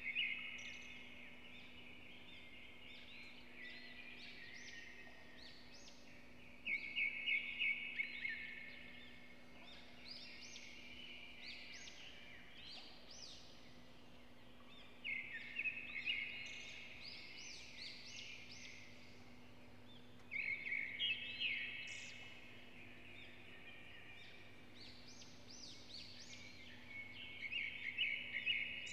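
A bird calling in chattering bursts of two to three seconds, five times, about every six seconds, over a faint steady hum.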